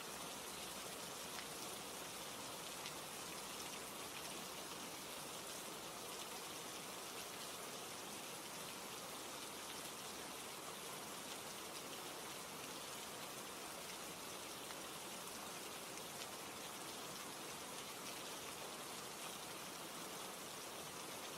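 Steady rain ambience: an even hiss of rainfall with raindrops pattering on a surface.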